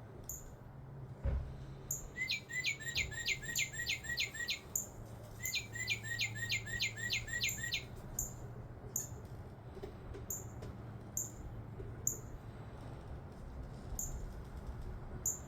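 Northern cardinal song: two phrases of about ten rapid down-slurred whistles each, one after the other, with short high chips repeating throughout.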